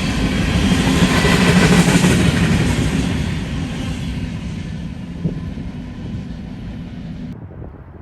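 A train passing on the rails, a dense rumble and hiss of wheels on track that peaks about two seconds in and then fades steadily as it moves away. The higher hiss cuts out suddenly near the end.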